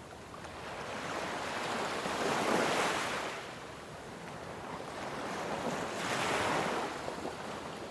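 Ocean waves surging and washing back, two swells rising and falling about three and a half seconds apart.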